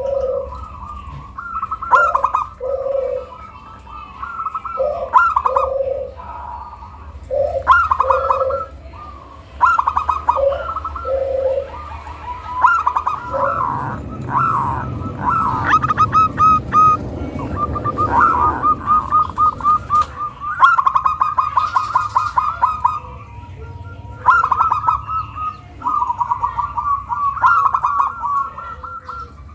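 Zebra dove (perkutut) cooing: phrases every second or two of a few low coo notes followed by a quick staccato run of higher notes. About halfway through, the phrases become longer rapid runs.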